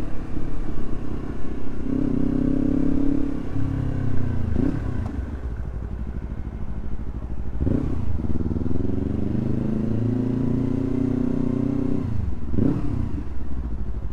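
Motorcycle engine running under way as it is ridden, its pitch climbing and easing off twice, with three quick swings in revs.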